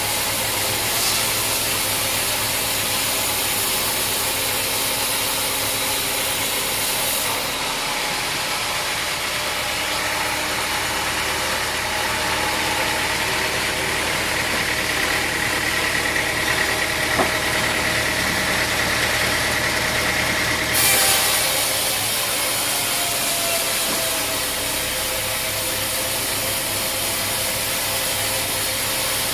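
Sawmill machinery running steadily with an engine hum; a thin high whine joins in the middle stretch and stops abruptly about twenty-one seconds in.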